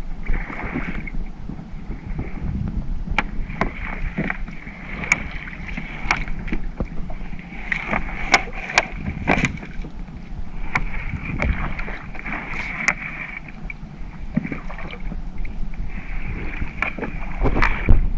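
Small fishing boat at work: a steady low engine hum, with a high whine that comes and goes and many irregular clicks and knocks from handling on deck.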